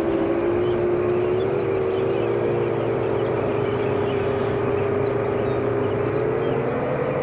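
FPV quadcopter's four brushless motors and tri-blade propellers whining steadily in cruising flight, the pitch wavering slightly and rising a little near the end with throttle.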